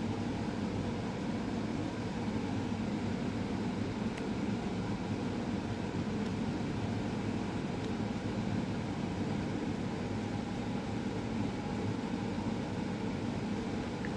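A steady low background hum that does not change, with no speech or other events.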